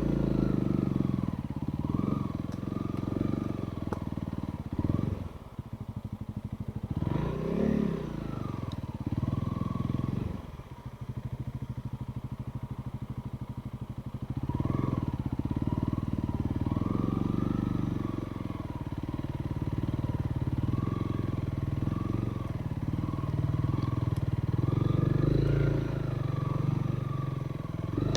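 Trail motorcycle engine running as it is ridden, revving up and down every few seconds, with the throttle closing briefly twice in the first half.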